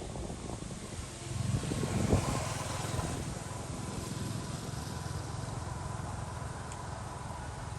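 A motor vehicle's engine: a low rumble that swells about a second in, peaks around two seconds, then runs on steadily.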